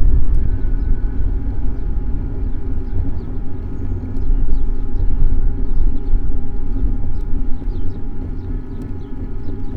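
A steady low rumble of wind and road noise on the microphone of a camera mounted on a moving bicycle, with a faint steady hum above it.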